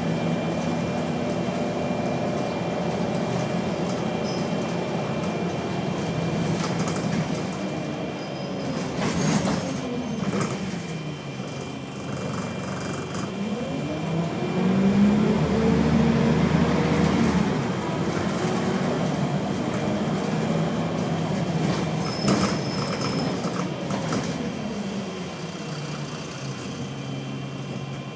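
Wright Solar bus heard from inside while driving, its engine note rising and falling as it pulls away, changes gear and slows. A steady high-pitched electrical buzz runs over it the whole time, a fault this bus has whenever its engine is running.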